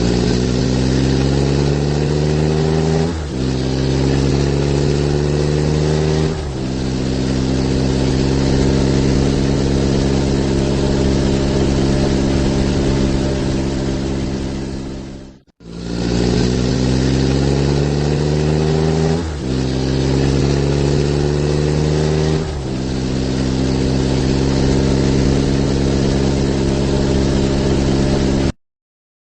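Truck engine sound effect accelerating, its pitch climbing through two gear changes before settling to a steady cruise. It cuts out briefly halfway through, repeats the same run-up and cruise, and stops near the end.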